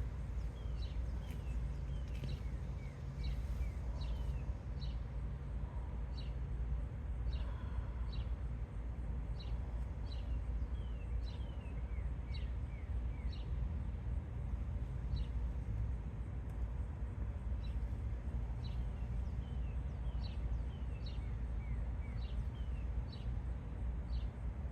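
Birds chirping over and over, short high notes that slide downward, over a steady low rumble.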